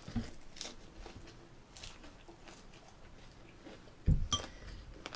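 A person chewing and biting into a bossam wrap, with faint crunches. There is a sudden low thump about four seconds in, followed by a sharp click.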